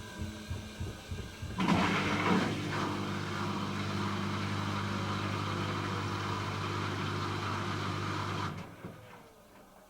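Hoover H-Wash 300 Plus washing machine spinning. After a pulsing start, the drum motor comes up loudly about one and a half seconds in and runs with a steady hum and whine. Near the end the motor cuts out and the drum coasts down with a falling whine.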